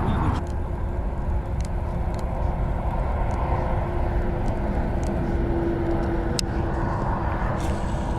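Outdoor rumble with a steady low hum that swells in the middle and fades, with a few faint clicks scattered through.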